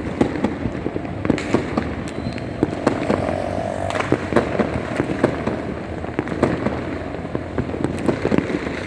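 Many fireworks and firecrackers going off at once: a dense, irregular run of sharp bangs and pops, some louder than others, over a continuous background crackle.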